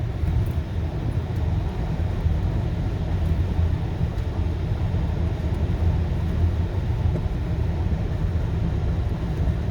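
Steady low rumble of a car's engine and tyres heard from inside the cabin while driving on a snow-covered highway.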